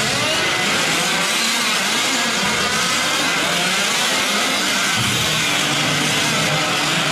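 Several 5th-scale gas RC trucks' small two-stroke engines racing, their pitch rising and falling as they rev and ease off.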